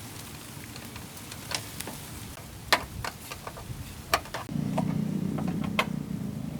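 Scattered sharp clicks and taps, and about two-thirds of the way in a steady low hum like a small motor starting.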